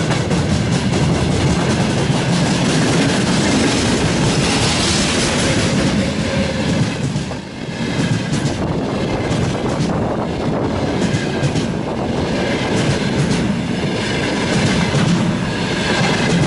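Freight train rolling past close by, its wheels clattering steadily over the rail joints, with a faint high-pitched wheel squeal. There is a brief dip in the noise about seven seconds in.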